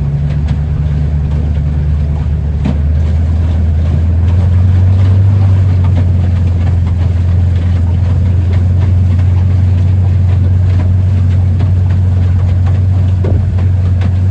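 Engine running under throttle during an oil pressure test; its note drops to a lower speed about three seconds in and then runs steadily. The engine is in poor health, not well but still running.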